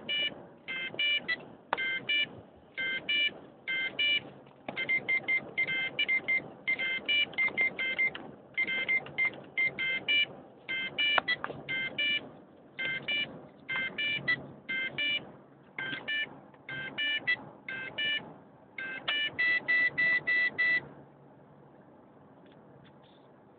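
Electronic beeps repeating in short, irregular runs, each one several tones together. They stop abruptly about 21 seconds in.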